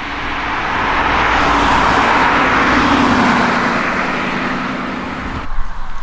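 A road vehicle passing close by: tyre and engine noise builds to a peak about halfway through, its tone dropping slightly as it goes past, then fades and cuts off abruptly near the end.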